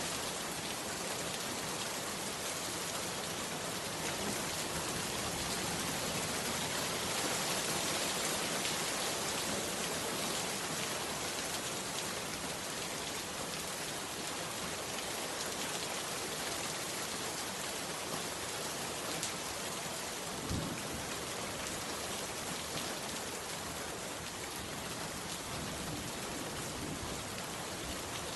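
Heavy rain pouring steadily, an even wash of falling drops. A brief low thump comes about two-thirds of the way through.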